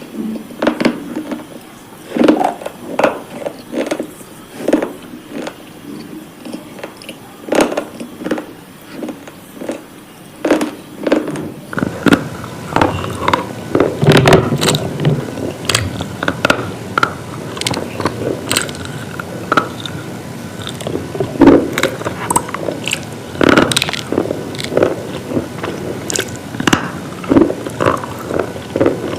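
Close-up crunching: hard, brittle slate pieces being bitten and chewed, giving many sharp, irregular cracks and crackles. About twelve seconds in, the crunching becomes denser and fuller.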